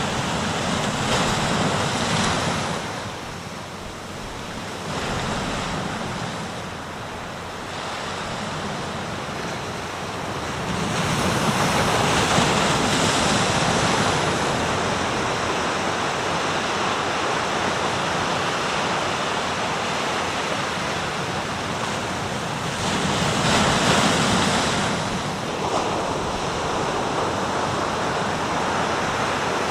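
Sea waves breaking and washing on the shore, surging and ebbing in slow swells with louder breaks near the start, about eleven seconds in and again about twenty-three seconds in.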